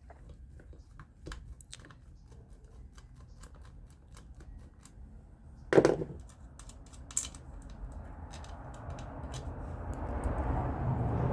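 Small clicks and taps from fan-motor parts being handled during disassembly, with a sharp knock about six seconds in, then a rustling, scraping noise that grows louder near the end.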